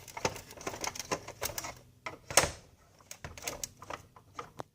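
Phillips screws being taken out of the bottom of a paper shredder: a run of irregular clicks and light knocks from the screwdriver and screws, with one louder knock a little past halfway.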